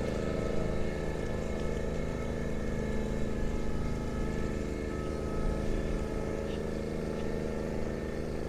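Water pump running steadily, forcing rinse water through a crop-spraying aircraft's boom and out of its nozzles to flush them.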